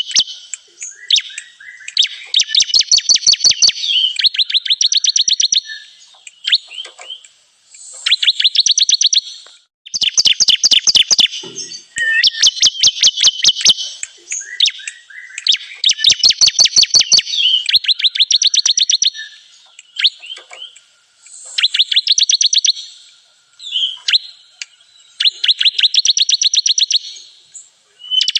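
Bar-winged prinia (ciblek) song, the lure call used to draw the bird in: loud, rapid trilled phrases of about one to two seconds, repeated again and again with short pauses.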